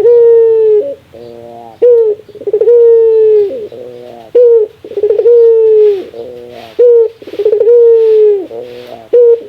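A ringneck dove (burung puter) calling over and over in its 'laughing' call: in each round, a short note, a long steady coo and a quieter rolling warble, repeated about four times.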